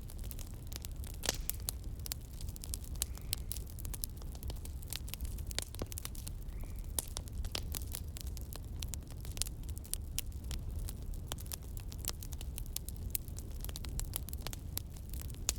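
Campfire crackling, with frequent irregular sharp snaps and pops over a steady low rumble.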